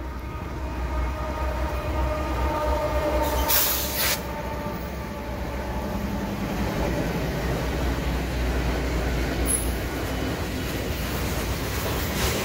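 Freight train passing: a steady low rumble of locomotive and rolling cars that swells in the first second, with faint steady tones over the first few seconds and a short hiss about three and a half seconds in.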